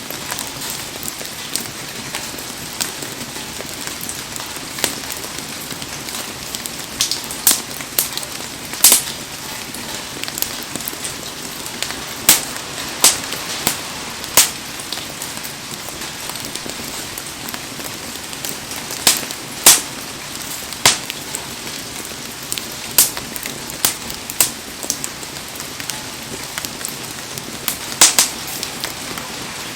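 A wood bonfire crackling and giving off sharp, loud pops at irregular intervals, over the steady hiss of heavy rain.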